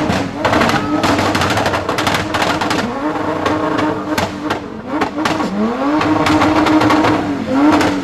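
Car engine revving hard several times, its pitch climbing and then holding high each time, amid many short sharp crackles.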